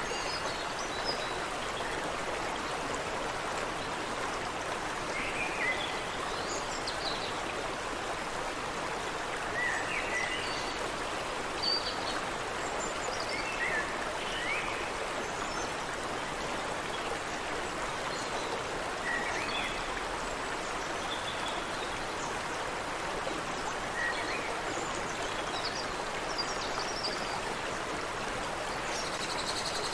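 A stream running steadily, with short bird chirps every few seconds.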